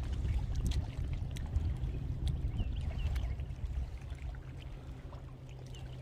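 Water lapping and trickling against a kayak's hull on choppy water, over a steady low wind rumble on the microphone, with scattered light clicks and splashes.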